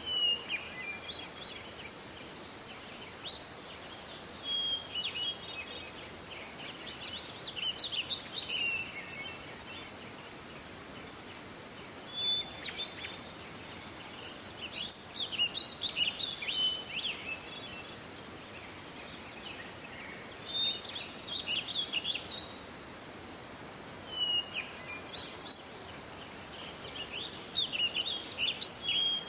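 Songbird song: short, quick warbling phrases of a second or two, repeated every few seconds, over a steady background hiss.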